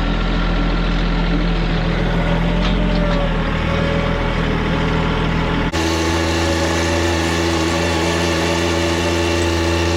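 Compact tractor's diesel engine running steadily. A little past halfway the engine note changes abruptly to a different steady hum.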